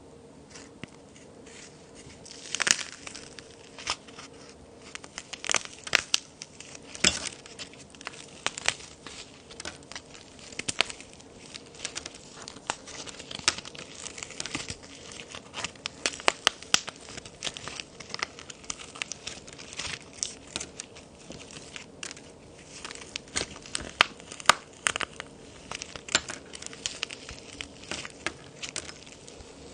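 Handmade plaster-and-clay toy cookies being snapped and crumbled by hand: irregular sharp cracks over a continuous gritty crumbling, the loudest snaps a few seconds in and about seven seconds in.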